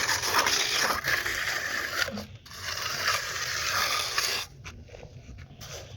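Rough, continuous scraping in two long stretches, with a short break a little past two seconds in, stopping about four and a half seconds in.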